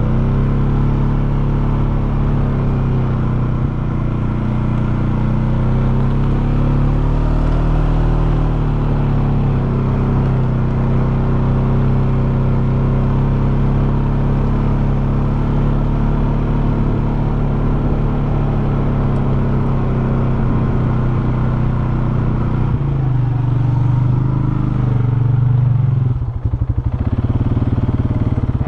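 Polaris Sportsman 570 SP ATV's single-cylinder engine running as the machine is ridden. The engine note rises and eases a few times with the throttle, and dips briefly about 26 seconds in.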